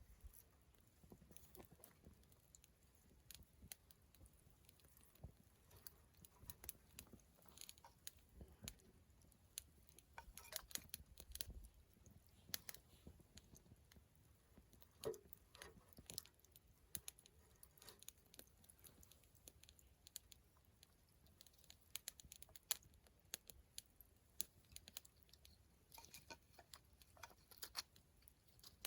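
Wood campfire crackling: faint, irregular small pops and ticks, a few louder snaps among them.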